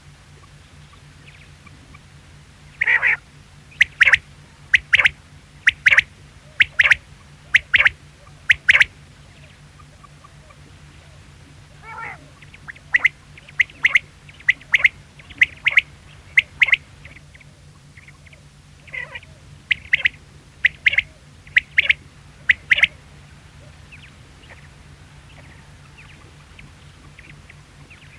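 Quail calling in three bouts. Each bout opens with a longer call that reaches lower, then follows with five or six short, sharp, high calls about one a second.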